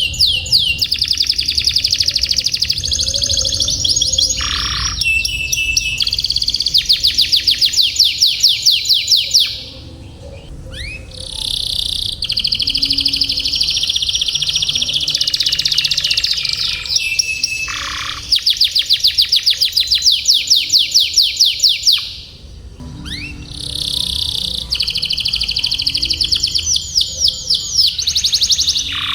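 Domestic canary singing long rolling trills of rapidly repeated high notes, in extended phrases broken by two short pauses, about a third and three-quarters of the way through.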